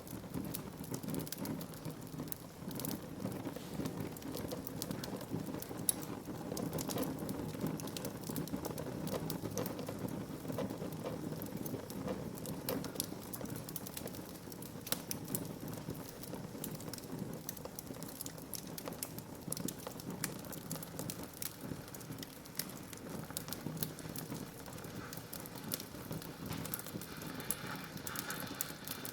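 Wood fire burning in a fireplace, crackling steadily with many irregular sharp pops and snaps over a low rushing of the flames.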